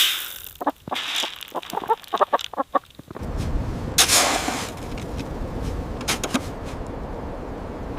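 Chickens clucking in short, separate calls. About three seconds in, they give way abruptly to a steady low rushing noise with a few sharp knocks.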